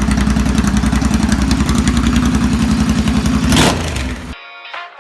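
Motorcycle engine idling with an even, rapid exhaust pulse, a short loud burst about three and a half seconds in, then it cuts off abruptly and music starts.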